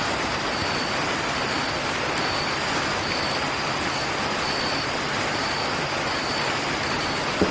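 Steady rushing background noise, with a faint high-pitched tone pulsing on and off a little more than once a second.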